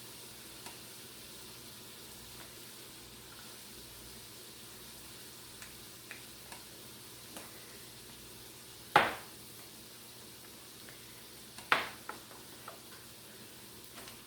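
Onion and celery sautéing in rendered bacon fat in an Instant Pot, a low steady sizzle with light scraping ticks of stirring. Two sharp knocks stand out, about nine and about twelve seconds in.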